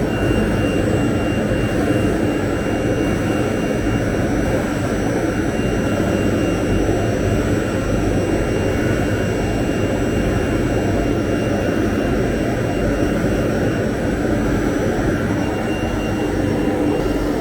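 CNC router running steadily: a loud, even rush with a thin high whine held throughout.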